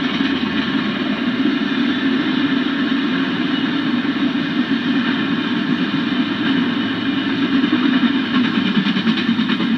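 Autorack freight cars rolling steadily past, a continuous rumble of steel wheels on the rails.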